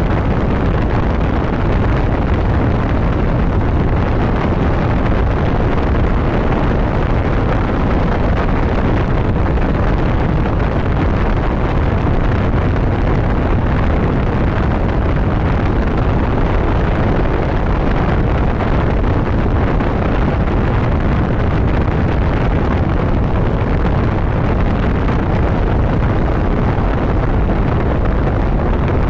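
Steady rush of wind buffeting the microphone over a motorcycle running at road speed, an unbroken, even noise that is strongest in the low end.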